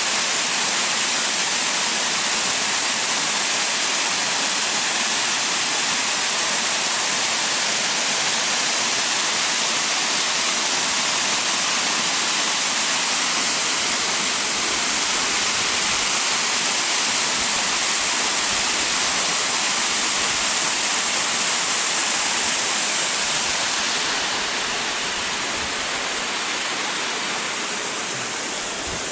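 Waterfall pouring into its plunge pool: a steady, full rush of falling water that eases slightly about five seconds before the end.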